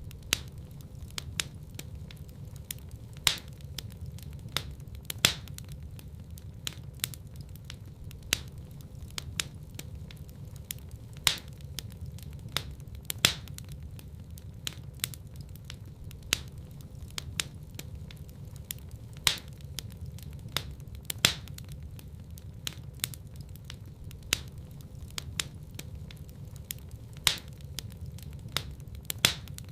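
Fire crackling in a fireplace: irregular sharp pops and snaps, a louder one every couple of seconds, over a steady low rumble of the burning.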